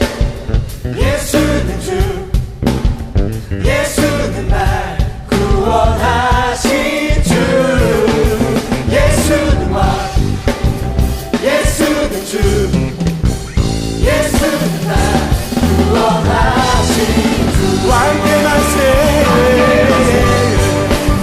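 Live worship band playing a rock-style praise song on drum kit and amplified instruments, with some singing.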